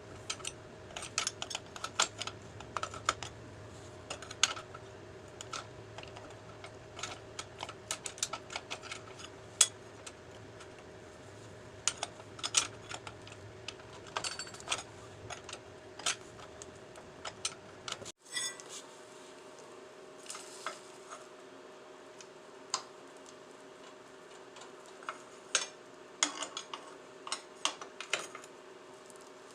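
Irregular light metal clinks and taps of hand tools and small parts being handled, over a steady hum; the background hum changes abruptly about eighteen seconds in.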